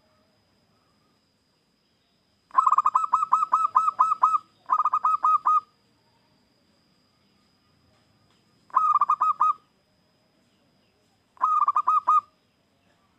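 Zebra dove (perkutut) singing: four bursts of quick repeated cooing notes, the first two longer, with short pauses between them.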